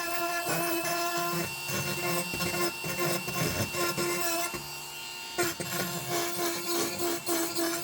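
Rotary tool with a carbide bit running at a steady whine as it grinds over an antique iron ice claw. The sound eases off briefly about halfway through, then picks up again.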